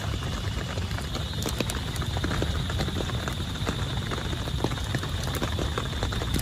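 Heavy rain pattering on tent fabric: a dense, steady patter of separate drops with a low rumble underneath.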